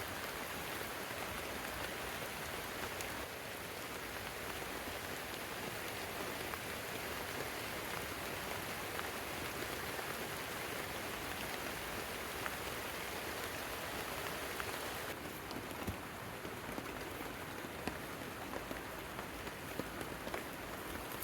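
Heavy rain falling steadily, a dense hiss with scattered single drops ticking through it. The hiss drops slightly about three seconds in and thins a little about fifteen seconds in.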